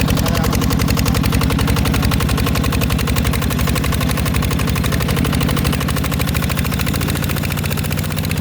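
Engine of a Mecatech 14 hp tractor running with a rapid, even chugging beat. It eases off slightly near the end.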